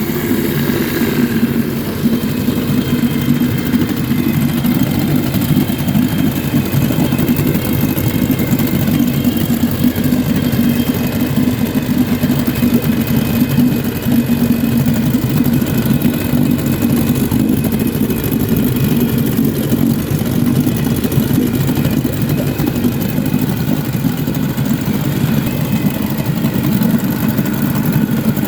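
1953 Scott-Atwater Gold Pennant 7-1/2 hp two-stroke outboard motor running steadily at an even speed.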